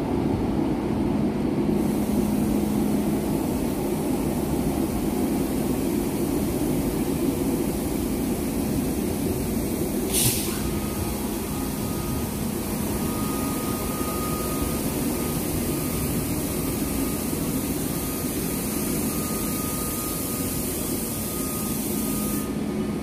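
Steady low rumble of a train, with a hiss over it for most of the time. A sharp click comes about ten seconds in, followed by a faint steady whine.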